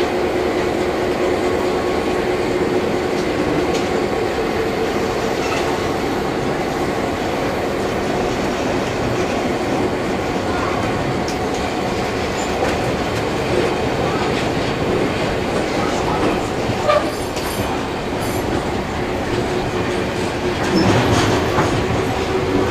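Heritage railway carriage rolling slowly on its rails, a steady running rumble of wheels and track with scattered clicks over rail joints, heard through an open carriage window.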